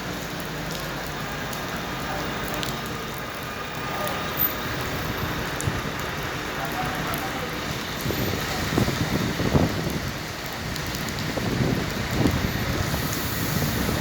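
Steady rain falling on a city street, an even hiss. Indistinct voices come in about eight seconds in.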